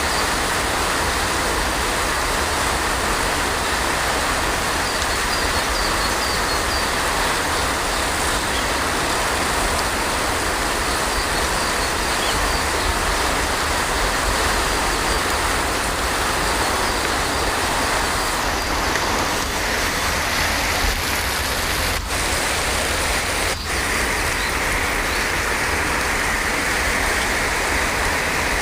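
Steady heavy rain, an even hiss with no letup, broken only by two very brief dropouts about three quarters of the way through.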